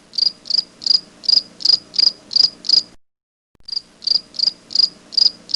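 An insect chirping steadily, a sharp high chirp repeated about three times a second. It breaks off for about half a second in the middle, then goes on.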